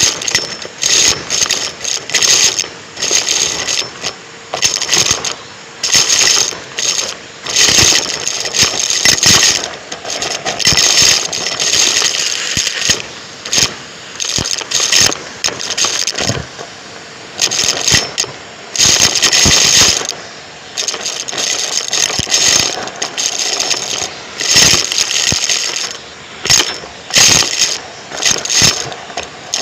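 Numatic James canister vacuum cleaner sucking up crunchy debris: irregular crackling and rattling bursts over the steady noise of the suction.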